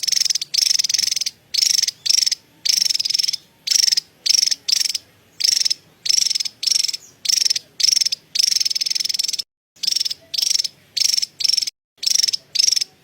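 Javan tesia chattering: high, buzzy, rattling bursts, each under a second long, repeated in quick succession with short gaps.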